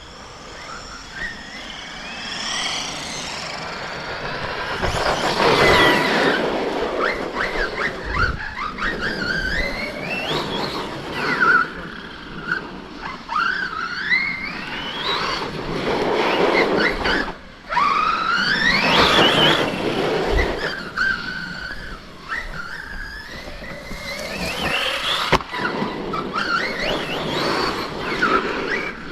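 Brushless electric motors of RC monster trucks whining, rising and falling in pitch over and over as the trucks accelerate and back off, over the noise of tyres on dirt.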